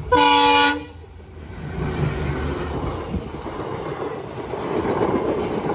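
Train horn sounding one short blast at the start as the locomotive approaches. Then the yellow passenger coaches pass close by with a steady rumble and clatter of wheels on the rails.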